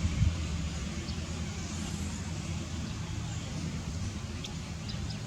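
A steady low engine hum, with a few faint short high chirps over it.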